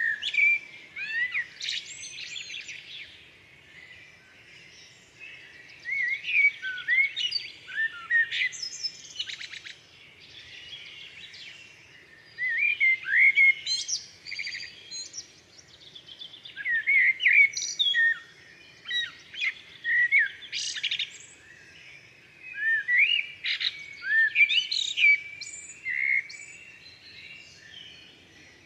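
Songbirds chirping and singing in bursts of quick rising and falling notes, each burst a few seconds long, with short lulls between them.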